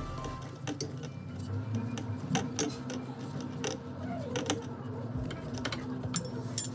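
Scattered light mechanical clicks and taps, irregularly spaced, over a low steady hum.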